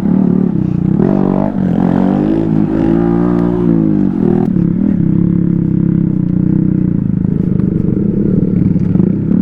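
A small off-road vehicle's engine running under way, its pitch rising and then easing off a few seconds in before it settles back to a steady drone.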